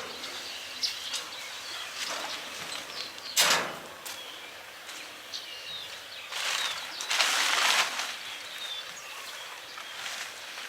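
Outdoor work noise: a sharp thump about three and a half seconds in and a couple of seconds of scraping or rustling around seven seconds, with small birds chirping throughout.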